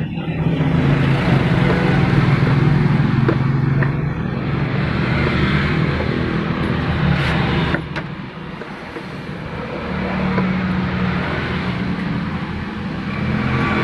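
A motor vehicle engine running steadily with a low drone, easing off about eight seconds in and building up again shortly after.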